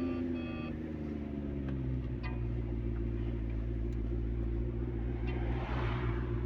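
Car engine running, its revs falling and settling to a steady idle over the first two seconds, with a few electronic beeps right at the start and a brief hiss near the end.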